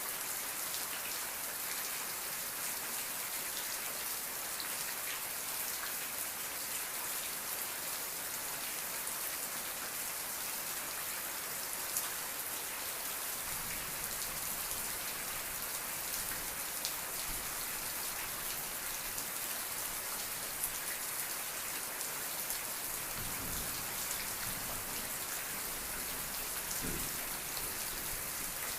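Steady rain falling: a dense, even hiss with many small drop ticks. A low rumble comes in about halfway through and again near the end.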